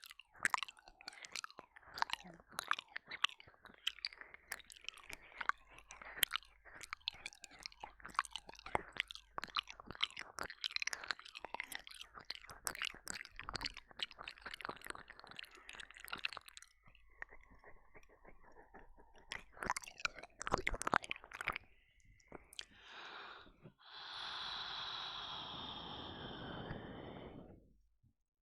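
Close-up ASMR mouth sounds of ear licking and ear eating: rapid wet clicks, smacks and licks, dense for most of the stretch, then sparser. Near the end comes one long breathy rush lasting a few seconds.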